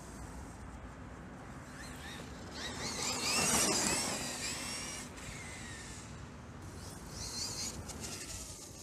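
Electric RC monster truck's Tekin Redline T8 brushless motor whining up in pitch as the truck accelerates, loudest about three and a half seconds in, then falling away; a shorter rise and fall comes near the end.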